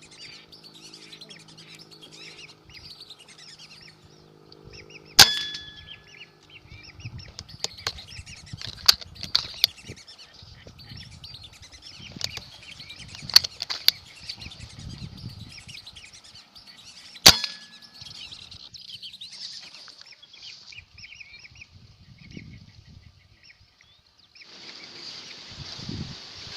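Two sharp hunting-gun shots about twelve seconds apart, the first with a brief metallic ring, over continuous bird chirping and whistling. A steady hiss comes in near the end.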